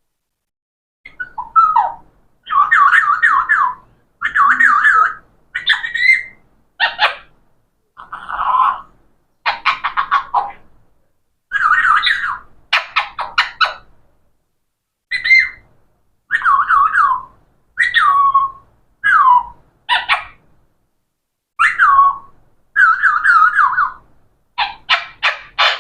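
Pet parrot calling and chattering: a string of short, pitched calls with brief pauses between them, some of them rapid and stuttering.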